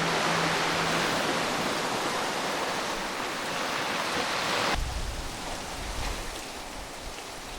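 A steady outdoor rushing noise, with a low hum that dies away about a second in. About five seconds in it cuts abruptly to a quieter hiss with low rumbling.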